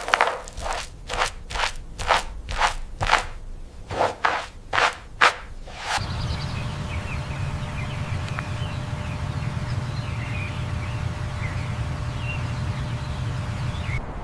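Crunching impacts about two a second, like steps, stopping suddenly about six seconds in. A steady low hum follows, with faint high chirps over it.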